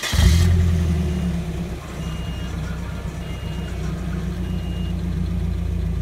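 Nissan 240SX S14's KA24DE four-cylinder engine catching at the very end of its starter cranking. It runs loudest for the first second or two, then settles into a steady idle.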